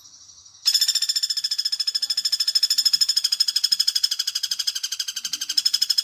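Lure recording of a common flameback woodpecker (pelatuk bawang) calling: a long, fast, even rattling trill that starts under a second in.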